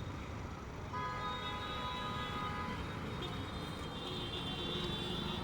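Low wind and road rumble on a helmet-side mic while riding through traffic. A held tone of several pitches starts about a second in and stops near the middle, and another high, steady tone comes in near the end.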